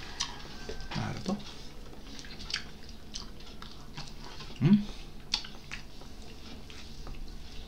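Close-miked eating: chewing with wet mouth clicks and lip smacks throughout, and a couple of brief low hums from the eater, the louder one about halfway through.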